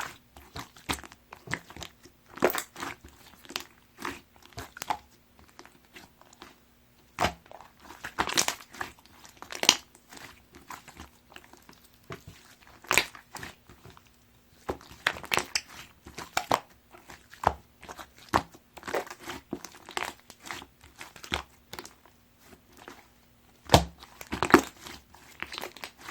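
Clear slime being squished and folded by hand, giving irregular sharp crackles and pops in clusters, with short pauses between handlings. A faint steady low hum runs underneath.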